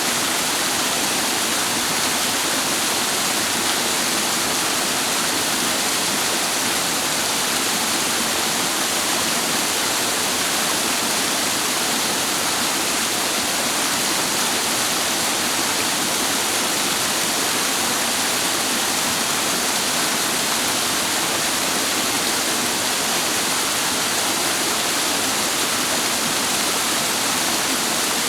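Clear mountain stream water rushing steadily over rocks: a dense, even sound of running water that does not change.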